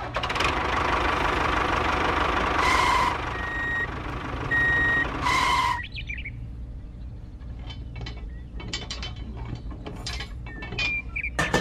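A vehicle running with a reversing beeper sounding about four times, cutting off about six seconds in. Then light metallic clicks and clinks of a small chain being hooked onto a toy tractor's tow hitch.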